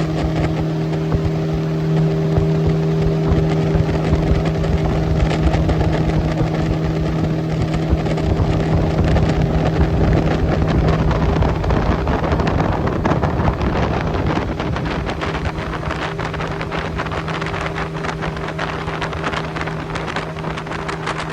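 Boat motor running at a steady speed, with wind buffeting the microphone. From about ten seconds in, a louder rushing noise covers the motor's tone for several seconds.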